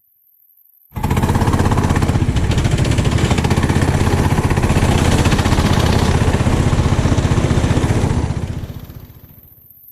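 390cc single-cylinder kart engine running loud and steady with a rapid firing pulse. It cuts in suddenly about a second in after near silence, and fades away near the end.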